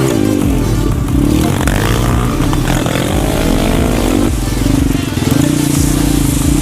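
Pit bike's single-cylinder engine running under the rider, its pitch rising and falling with the throttle a couple of times, then holding a steadier note in the second half.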